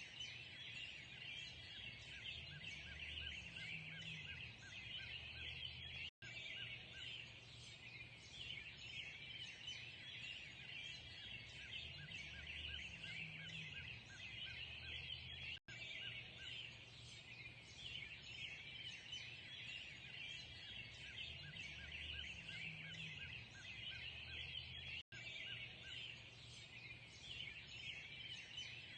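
A dawn chorus of many birds chirping and singing together, steady and faint, with a low hum underneath. The recording loops about every nine and a half seconds, with a split-second dropout at each join.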